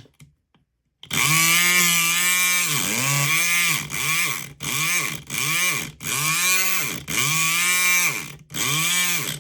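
SouthOrd E500XT electric lock pick gun buzzing as it is triggered again and again in about eight short bursts, starting about a second in. The pitch rises as each burst starts and sags as it is let go.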